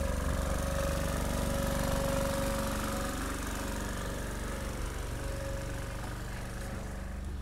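Steady low engine-like running of a train standing at the platform, with a faint held tone over it that fades a little about halfway through.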